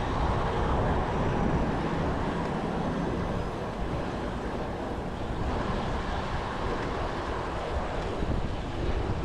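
Steady wind noise on the microphone of a bicycle riding at speed, mixed with road noise.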